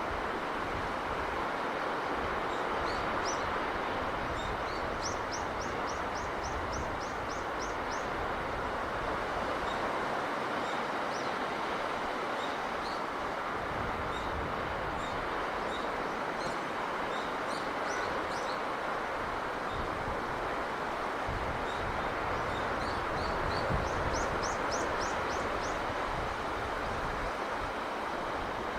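Steady rush of sea breeze and surf, with small birds chirping over it; twice, a bird gives a quick run of about ten high notes.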